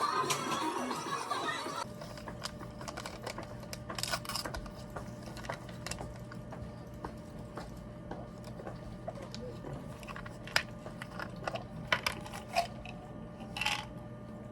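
Typing on a Bluetooth keyboard for an iPad: irregular key clicks, a few at a time with gaps between.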